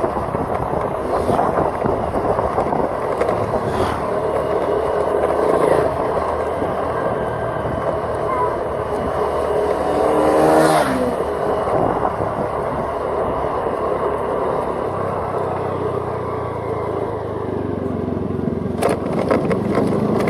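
Steady road and engine noise of a vehicle driving along. About halfway through, another engine swells and drops in pitch as it passes.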